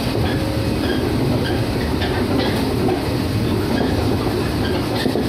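Onboard running noise of a Shinano Railway 115 series electric train at speed: a steady rumble of wheels on rail and running gear, with a few faint clacks as the wheels cross rail joints.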